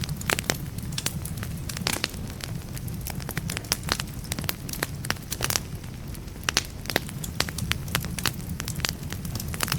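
Wood fire in a fireplace crackling, with frequent sharp irregular pops and snaps over a steady low rumble of the burning logs.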